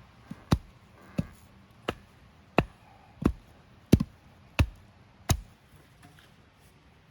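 Steady, evenly paced blows of a hand tool striking wood, about one every 0.7 seconds, each a sharp knock with a low thud. Eight strokes in all, stopping about five and a half seconds in.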